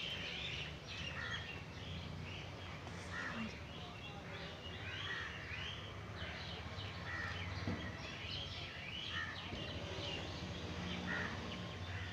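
Birds chirping and calling in short, irregular notes, over a steady low hum.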